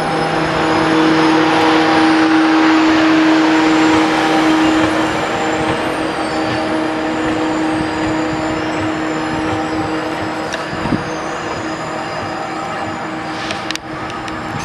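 A train running at the station: a steady mechanical rumble with a sustained tone through it, loudest in the first few seconds and then easing a little. There is an abrupt break near the end.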